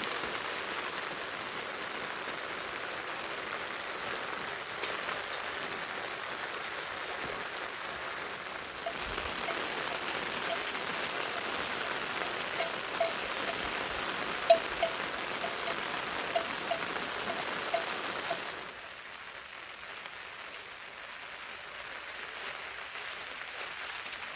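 Steady rain falling. It grows a little louder about nine seconds in, with a run of short pitched drips, then turns softer a few seconds before the end.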